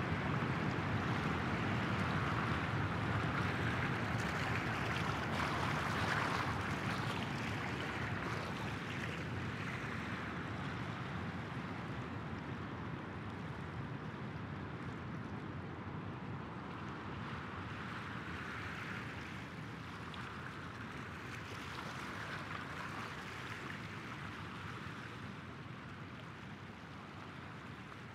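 Sea waves washing in slow swells, gradually fading out.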